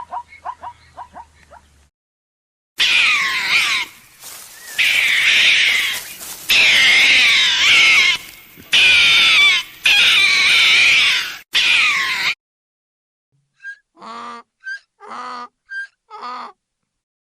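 An animal's loud, high-pitched, wavering squeals or yowls in several long bouts. Four short calls follow near the end.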